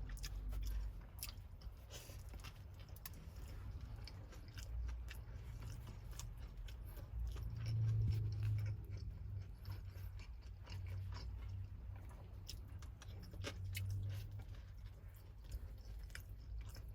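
Person chewing a mouthful of Subway tuna melt sandwich on grilled bread, with many small scattered mouth clicks.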